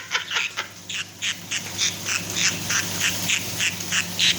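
Pet conure imitating its owner's laugh: a quick run of short, harsh 'ha' calls, about four a second, starting about a second in.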